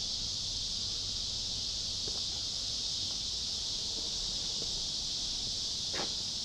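A steady chorus of crickets or similar insects, an even high-pitched drone, heard muffled with a low rumble under it and a few faint ticks.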